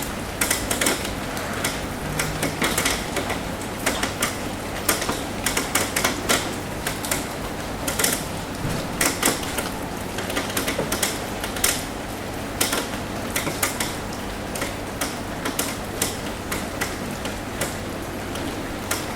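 Rain tapping on a roof: irregular drops ticking sharply, several a second, over a steady hiss of rain.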